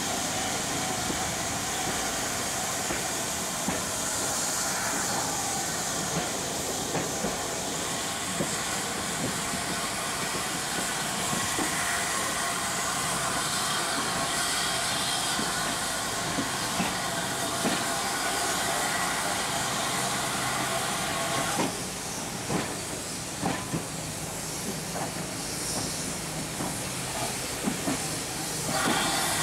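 Heritage passenger coach running along the line, heard from an open window: a steady hissing rush of the moving train with wheels clicking over rail joints. Near the end the clicks come more sparsely as the train slows into a station platform.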